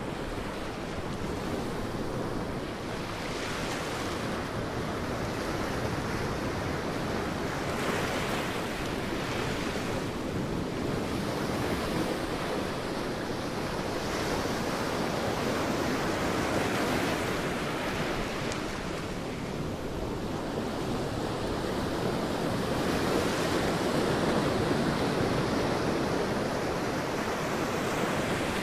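Sea waves breaking and washing onto a beach in a continuous surf, swelling and easing every few seconds.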